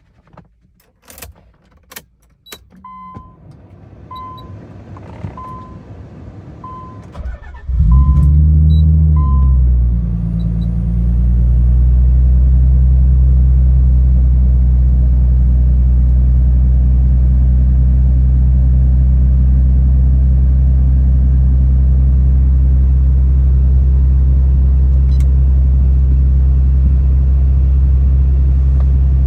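Nissan 300ZX Twin Turbo's 3.0 L twin-turbo V6 (VG30DETT) cold start. First come a few clicks and a chime beeping about once a second. Then the engine cranks briefly, catches about eight seconds in, flares and settles into a steady cold idle.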